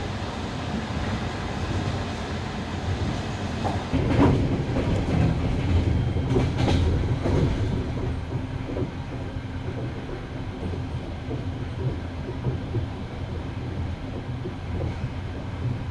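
Passenger train carriage rolling along the track, heard from the carriage window: a steady low rumble of wheels on rails with clacking over the rail joints. It grows louder with a run of clacks and rattles about four seconds in, then eases back to a steady rumble.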